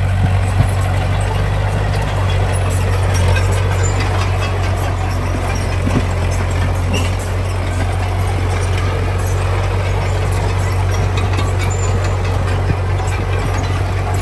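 Heavy diesel engine of earthmoving machinery running steadily, with scattered small clicks and clanks over it.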